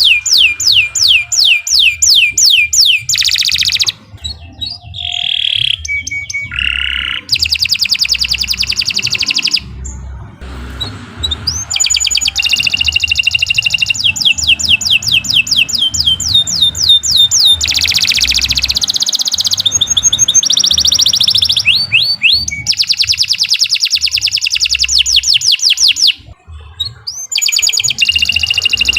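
Domestic canary singing loud, long song phrases: rapid runs of repeated notes, trills and rolls, one phrase after another with brief pauses between them.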